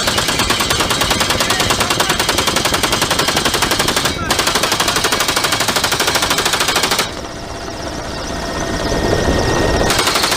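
Helicopter door gunner's machine gun firing long bursts of rapid, evenly spaced shots. There is a brief break about four seconds in, and a pause of about three seconds near the end, in which steady helicopter noise carries on, before firing resumes.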